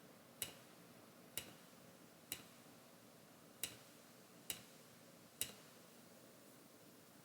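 Six faint, sharp single clicks about a second apart: a computer mouse being clicked to fix a frozen screen.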